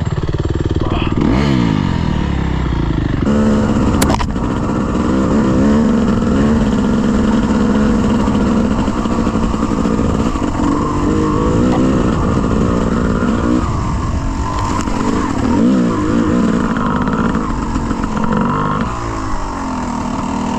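Dirt bike engine revving up and down over and over, its pitch rising and falling, with a sudden change in sound about three seconds in.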